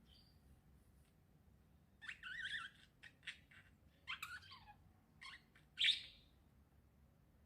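Small birds chirping: a run of short chirps and brief trills starting about two seconds in, the loudest call near the end.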